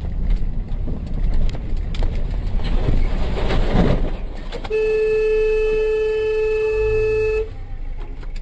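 Vehicle horn held on one steady note for nearly three seconds, starting about halfway through and cutting off sharply, over the rumble of road and engine noise.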